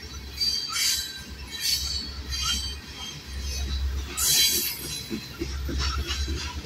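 Freight train of loaded covered grain hopper cars rolling past at low speed, with a steady low rumble. Its steel wheels give several short, high-pitched squeals, the loudest about four seconds in.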